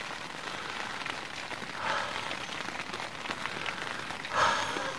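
Steady rain pattering on a tent, heard from inside, a hiss full of separate drop ticks. Two brief louder rushes come about two seconds in and near the end.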